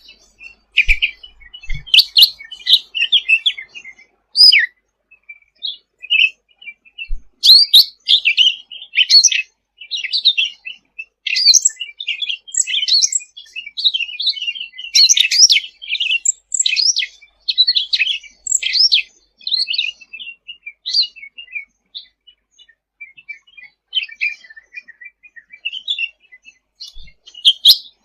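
Cucak ranting singing: rapid, high chirps and warbled phrases in a near-continuous stream, with a brief pause about five seconds in and softer, sparser notes near the end.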